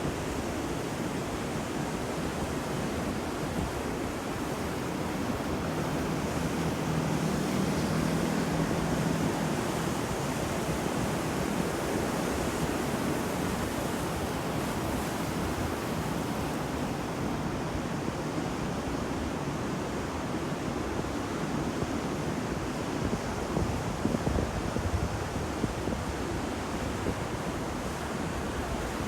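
Sea waves washing onto a shore in a continuous rush of surf. It swells a little about a quarter of the way in, with a few sharper splashes a little past the three-quarter mark.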